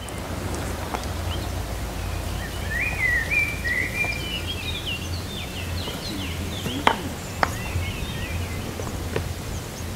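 A bird singing a run of quick chirping, warbling phrases over a steady low outdoor rumble, with two sharp knocks about seven seconds in.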